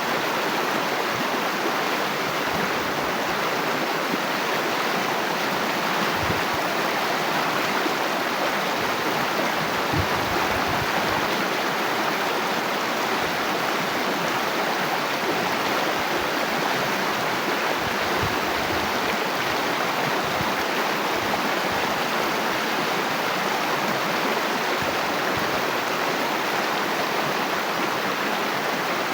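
Water flowing steadily, a continuous even rush and splash with no breaks or changes.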